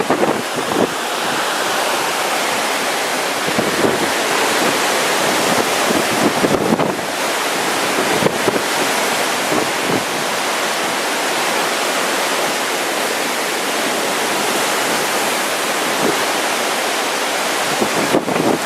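Hurricane wind and surf: a loud, steady rush of noise with small surges, as the storm picks up.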